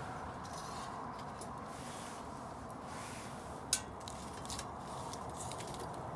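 Wood bonfire burning with a steady hiss and scattered crackles, one sharp pop about four seconds in.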